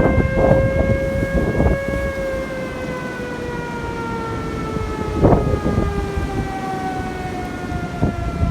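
Storm wind buffeting the microphone, with a long, steady howling tone that sinks slowly in pitch.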